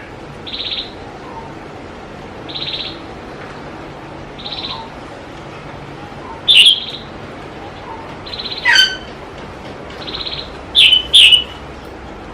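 Small birds chirping: a short buzzy call repeats about every two seconds, and louder sharp chirps come a little past halfway, then twice in quick succession near the end.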